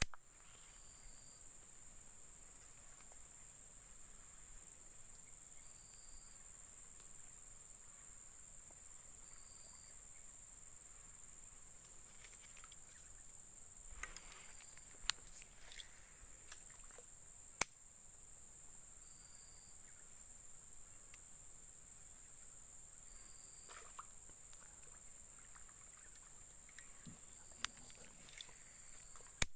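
Insects buzzing steadily in the background, with a short high chirp repeating about every four seconds. A few sharp clicks come through during the second half.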